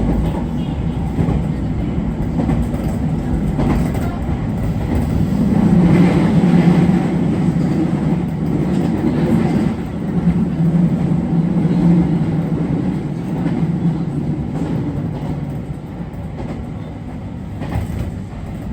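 JR Kyushu 811 series electric train running, heard from inside near the front, with a steady low hum from its VVVF-inverter traction motors that swells in the middle and eases off toward the end.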